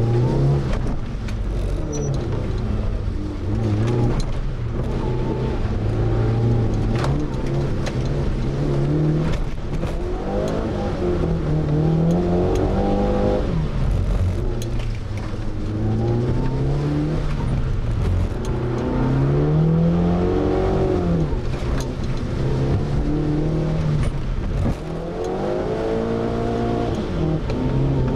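Mitsubishi Lancer Evolution VII's turbocharged four-cylinder engine heard from inside the cabin, revving up and easing off again several times as the car is driven hard in short bursts.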